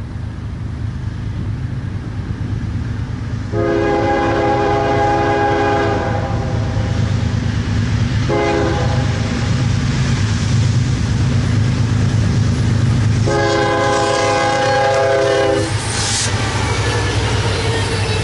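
Diesel locomotive's multi-chime air horn sounding a long blast, a short blast and another long blast, typical of a grade-crossing signal, over the steady, growing rumble of the approaching locomotive. Wheels clatter on the rails near the end.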